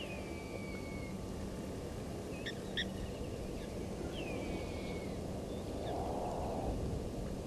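A bird's whistled call falling in pitch, repeated about every four seconds, over a steady low rumble of outdoor noise.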